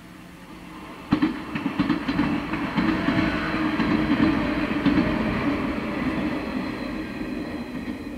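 Train passing close by, arriving suddenly about a second in, its wheels clacking over the rail joints, then slowly fading.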